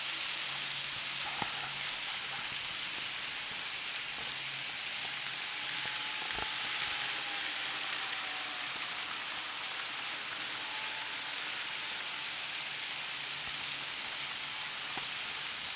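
N-scale model train running on the layout: a steady hiss with a faint whine that wavers in pitch from about six to nine seconds in, and a few light clicks.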